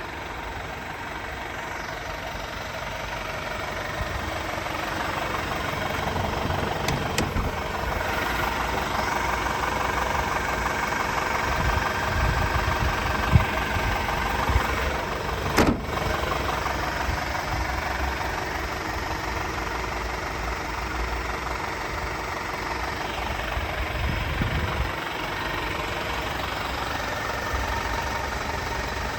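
Renault D 10.210 truck's 5.1-litre four-cylinder inline diesel engine idling steadily. There is a sharp click about halfway through.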